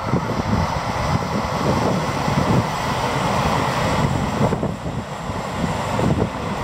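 Electric commuter train running across a concrete railway viaduct: a steady rumble of wheels on rails, with wind gusting on the microphone.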